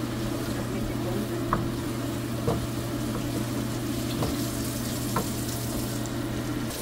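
Onions and tomatoes frying in oil in a non-stick wok while being stirred with a spatula, which taps or scrapes against the pan four times. A steady low hum runs underneath.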